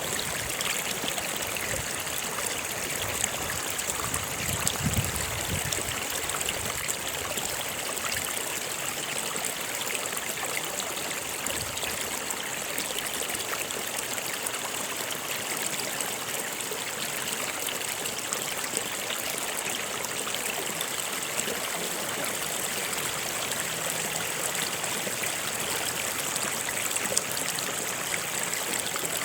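Flowing stream water, a steady, unbroken rush.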